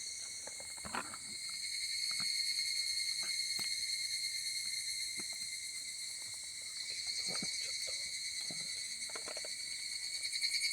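Steady chorus of crickets and other insects, a high, shimmering trill in several layers, with a few faint scattered clicks and taps.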